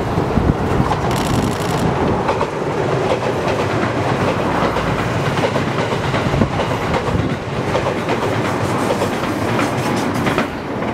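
A 787-series electric express train passing close by, its wheels clicking rhythmically over rail joints over a steady rush of running noise.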